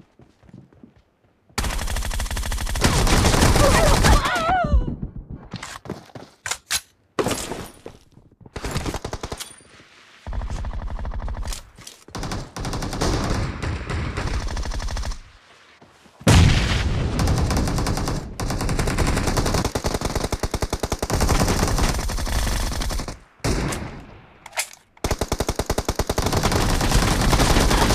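Automatic gunfire in a first-person shooter video game, fired in several long, rapid bursts with short pauses between them.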